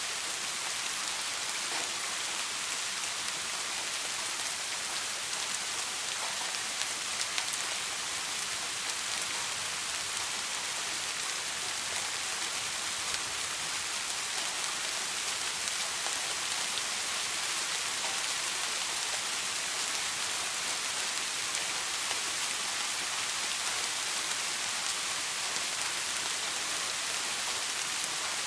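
Soft rain falling steadily, an even hiss of drops on a surface with a few sharper drop ticks standing out.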